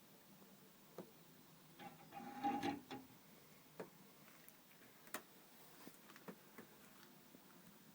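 Forged iron fireplace tools being handled: scattered light clicks and taps, with a short metallic clatter that rings briefly about two and a half seconds in.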